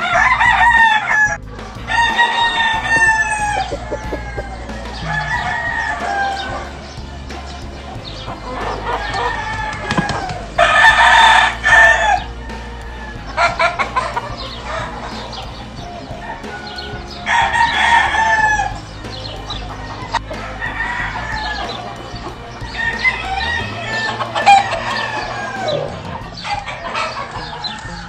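Game roosters crowing over and over, several birds calling one after another, with softer clucking between the crows.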